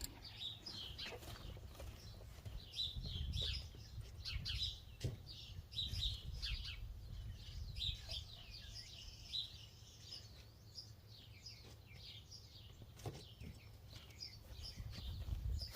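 Birds chirping in many quick, short calls over a low rumble, with two light knocks, about five and thirteen seconds in.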